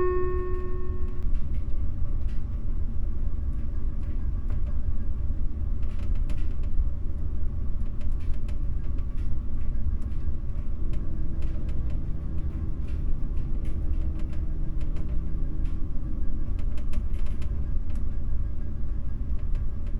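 Steady low rumble of a large car ferry under way, with the last note of the announcement chime fading just at the start.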